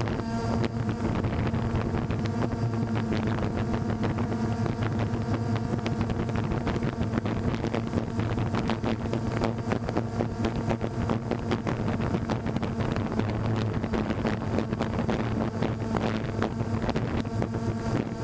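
Phantom quadcopter drone's propellers buzzing steadily in flight, with wind buffeting the microphone in frequent crackles.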